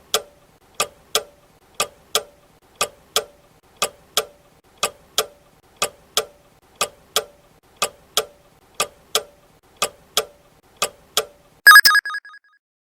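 Countdown-timer sound effect: a clock ticking steadily, two ticks a second, then a short ringing alarm chime near the end as the answer time runs out.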